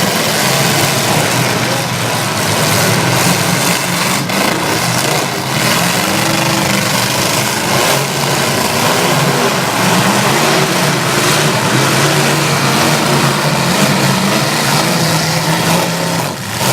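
Several demolition-derby pickup trucks' engines running and revving hard together, a loud continuous mechanical din whose engine pitch rises and falls.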